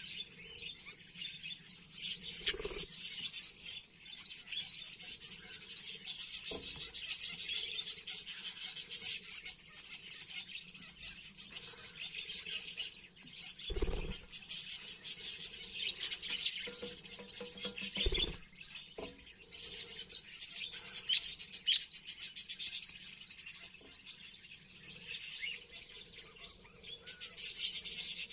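Many aviary birds chirping in a dense, rapid, continuous chatter, with a few dull thumps.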